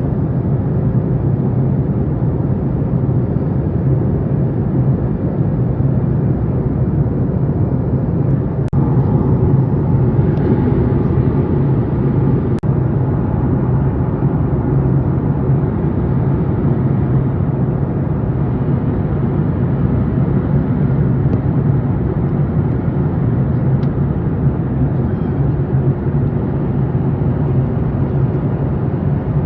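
Steady in-flight cabin noise of a Boeing 737 MAX 8: a low, even drone from its CFM LEAP-1B engines mixed with the hiss of air rushing past the fuselage.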